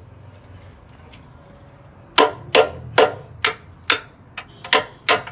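Hammer blows on a metal car part during steering work: after about two seconds of low background noise, a run of sharp, evenly paced strikes, about two to three a second, each with a short ring.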